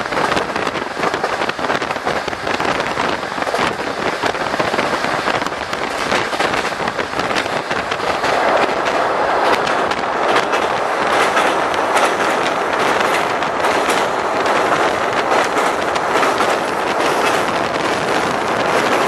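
Passenger train heard from inside the carriage, running along with a steady rumble and the rapid clicking and rattling of wheels on the track. The noise gets louder and fuller about eight seconds in, as the train runs onto a steel truss bridge.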